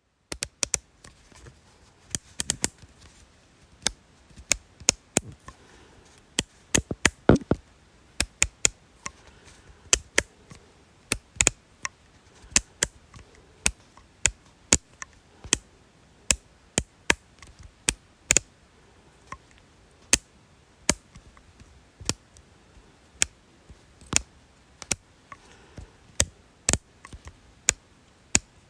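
Sharp clicks repeated at an uneven pace, roughly one or two a second, some coming in quick pairs or short clusters.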